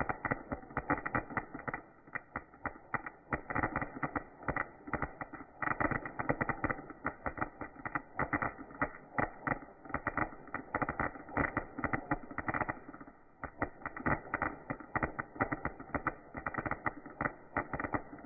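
Fireworks crackling: a dense, unbroken run of rapid, irregular pops.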